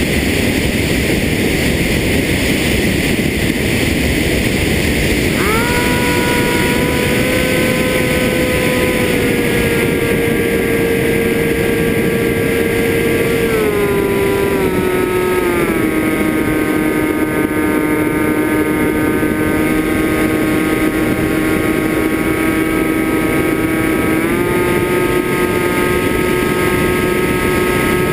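FPV quadcopter's electric motors and propellers whining over a steady rush of wind. The whine starts about five seconds in and shifts pitch in steps as the throttle changes: falling about halfway through, then rising again near the end.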